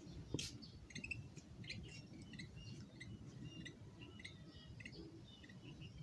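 Small birds chirping faintly, with many short high chirps in quick succession. A single sharp click comes just after the start.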